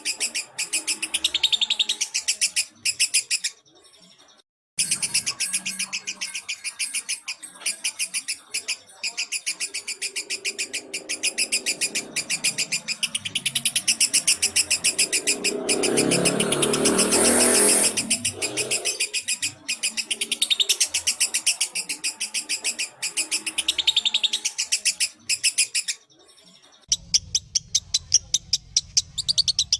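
Lovebird song: fast, dense strings of high chirps and trills broken by short pauses. There is a brief silent gap about four seconds in and a louder, rougher stretch past the middle. Near the end it turns into evenly spaced chirps over a low hum.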